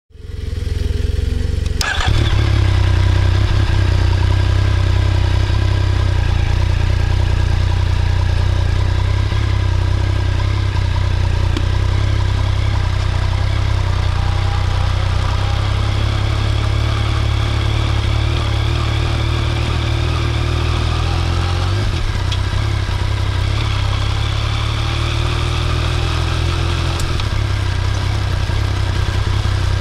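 Yamaha Tracer 900 motorcycle's 847 cc inline-three engine running at a steady pitch, coming in about two seconds in; its note briefly breaks and shifts about two-thirds of the way through.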